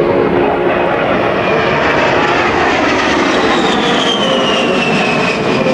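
A-10 Thunderbolt II's twin turbofan jet engines during a low pass: a loud, steady rush with a high whine that falls in pitch over the second half as the jet passes.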